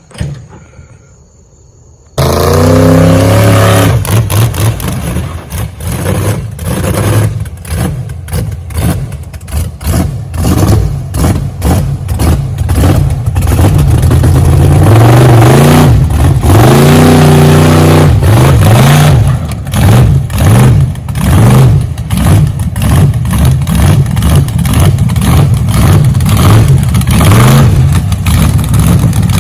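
A truck's engine comes in suddenly and loud about two seconds in, revving hard with its pitch rising and falling. Later it runs at full throttle with surges about twice a second near the end.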